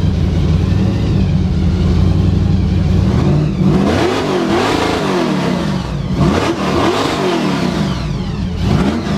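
A car engine running at a steady, loud idle, then revved several times from about three and a half seconds in, each rev rising and falling in pitch.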